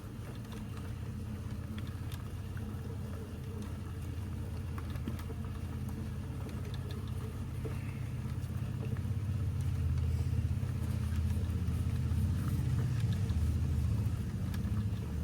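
Steady low mechanical hum, growing louder about ten seconds in, with a few faint clicks over it.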